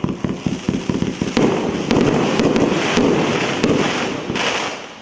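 A 348-shot firework cake firing a rapid volley: many sharp bangs and pops in quick succession, with a dense hiss between them. The volley thins out near the end.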